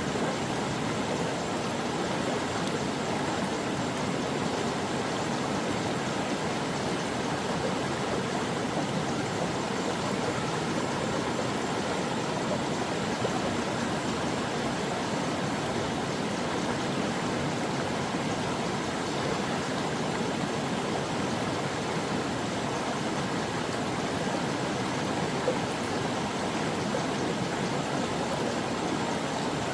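A stream of running water, a steady rushing and burbling that stays even throughout.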